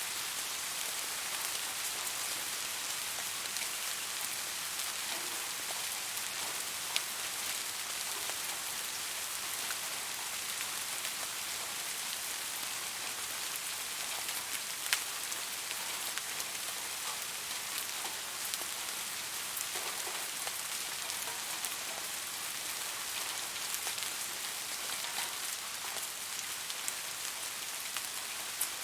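Steady rain falling, an even hiss with scattered sharp drop impacts, two louder ones about 7 and 15 seconds in.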